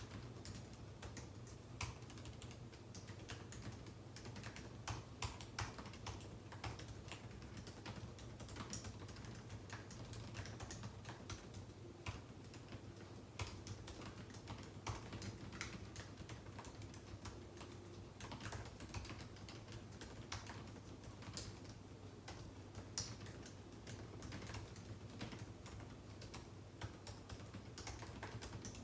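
Steady, irregular typing on a computer keyboard: quick key clicks with small pauses, over a faint constant low hum.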